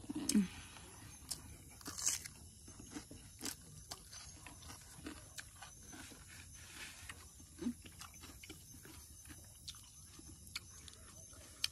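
Close-up eating sounds of rice and chicken gravy being eaten by hand: chewing, lip smacks and many short scattered clicks. A brief low hum comes right at the start.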